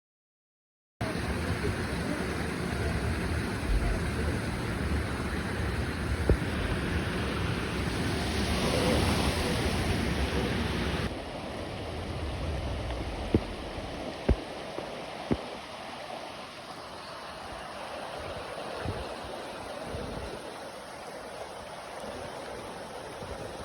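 A river rushing steadily, as an even hiss. About eleven seconds in it drops suddenly to a quieter, thinner rush, and a few sharp knocks come soon after.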